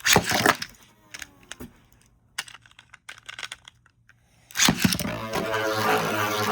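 Sharp plastic clicks and rattles from Beyblade tops being handled and fitted to their launchers. About four and a half seconds in, the tops are launched into the stadium and spin with a steady whirr, their metal fusion wheels grinding against each other and the plastic dish.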